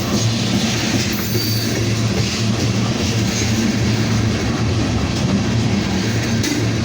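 Loaded freight cars of a long freight train rolling past at speed. The wheels on the rails make a steady, even rumble.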